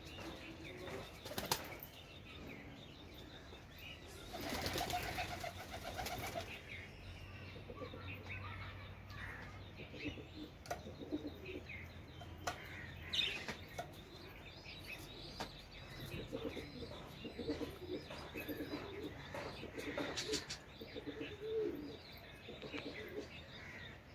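Pigeons flapping their wings, with a loud flurry of wingbeats lasting about two seconds starting around four seconds in and shorter flaps near the start and near the end. Soft pigeon cooing in the later part.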